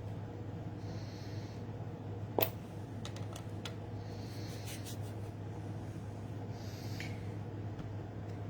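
Quiet handling of stamping tools at a craft table: one sharp click about two and a half seconds in and a few lighter ticks after it, over a steady low hum, with three soft breaths.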